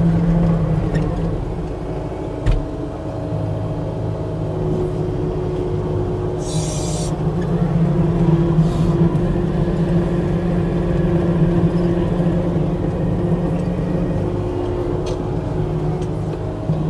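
New Holland 232 compact track loader's diesel engine running steadily under work, with a sharp click about two and a half seconds in and a brief hiss about seven seconds in.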